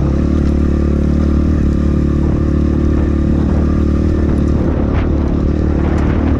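Templar X 250 dirt bike engine running on a trail, holding a steady note at first, then rougher and less even in the second half with a few sharp knocks.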